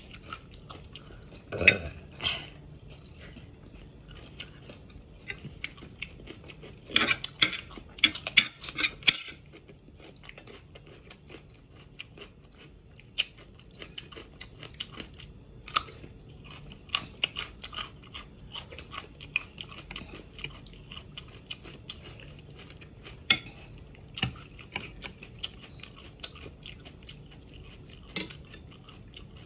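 Close-up crunching and chewing of raw vegetables, raw carrot among them, in crisp bites. The loudest crunches come about 2 seconds in and again from about 7 to 9 seconds in.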